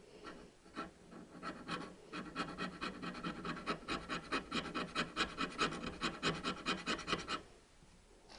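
Scraping hard carbon deposits off a Triumph 650 engine valve by hand during a decoke, a few slow strokes and then quick, even strokes at about four a second that stop about a second before the end.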